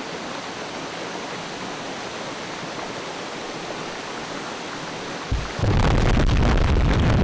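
Steady rush of a waterfall. About five seconds in, a much louder low, buffeting rumble cuts in over it.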